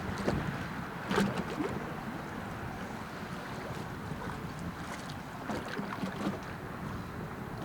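Steady low rumble and wash of a passing lake freighter, mixed with wind buffeting the microphone. A few short knocks stand out, the loudest about a second in.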